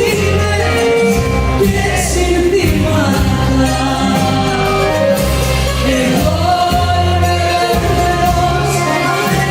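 Live performance of a Greek laïko song: a woman singing over a band, with steady, sustained bass notes underneath.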